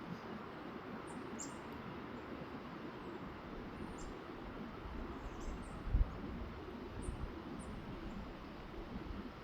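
Small birds giving short, very high chirps every second or so over a steady low outdoor rumble, with a brief low thump about six seconds in.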